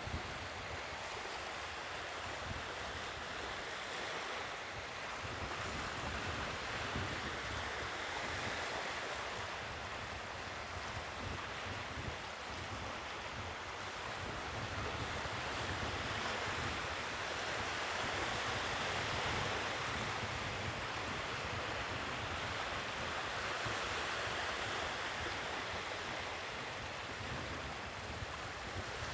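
Sea waves washing onto the shore, a steady surf hiss that swells and eases slowly over several seconds, with some low wind rumble on the microphone.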